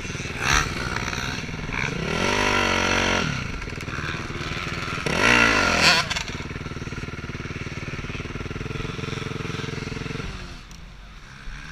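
Motocross motorcycle engines running, revving up and back down twice, about two seconds in and again around five seconds; the engine sound drops away near the end.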